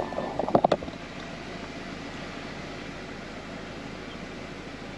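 A 1998 Toyota Tercel's four-cylinder engine idling steadily, with a few sharp clicks about half a second in. The engine has a misfire that the scanner logs on cylinder 3.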